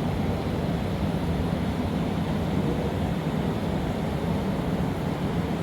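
Steady low roar and hum of a glassblowing workshop's gas-fired furnaces and blowers, running without a break.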